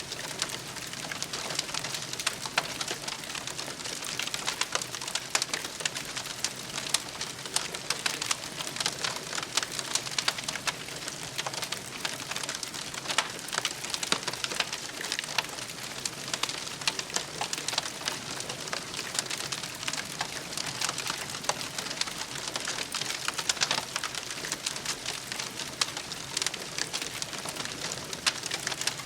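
Wood campfire crackling: a steady hiss with many sharp pops and snaps scattered throughout.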